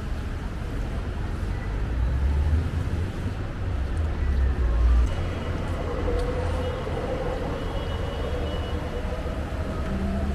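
Road traffic going by on a wet city street: a low, steady rumble that swells about two to five seconds in, with a vehicle's humming tone coming in around the middle.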